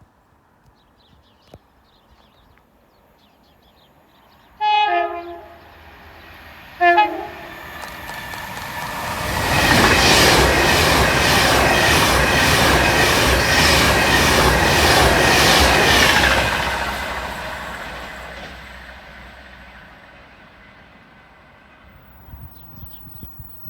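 A train sounds its two-tone horn twice, a longer blast then a short one. It then passes loudly for several seconds with a rhythmic clatter of wheels over the rail joints, and the sound fades away.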